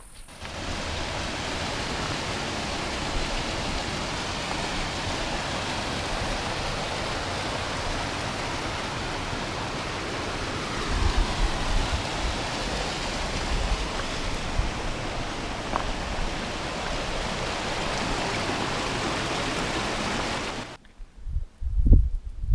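Steady rushing water of a mountain stream, starting and cutting off abruptly, with a few low thuds about halfway through.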